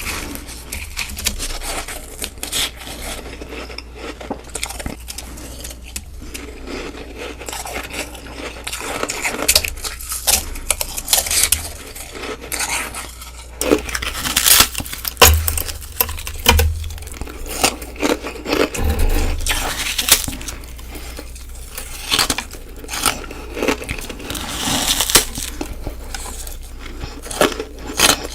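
Close-miked crunching of ice being bitten and chewed: a dense, irregular run of crisp crunches and crackles with a few heavier bites. The sound changes about halfway through, where one bite clip gives way to another.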